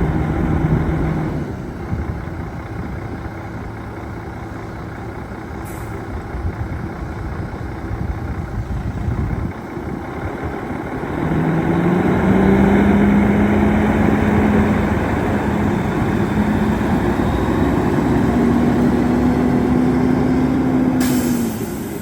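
Diesel engine of a 2005 Freightliner Columbia semi truck running. Its speed falls back early on, is raised about halfway through and held high, then drops again near the end. A short hiss sounds just before the drop.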